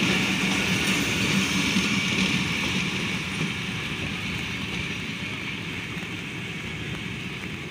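Pakistan Railways Awam Express passenger coaches rolling along the track and moving away, their rumble fading steadily as the tail of the train recedes.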